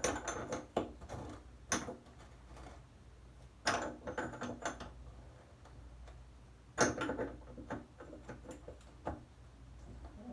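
Irregular metallic clicks and knocks, about six spread over ten seconds, as hand tools work a shower valve stem back into its valve body.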